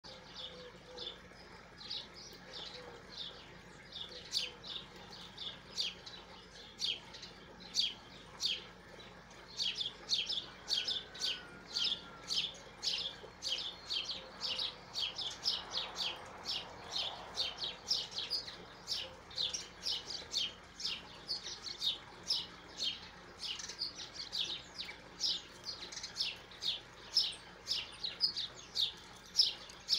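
A small bird chirping over and over, short high chirps at about two a second, louder and more regular after the first few seconds.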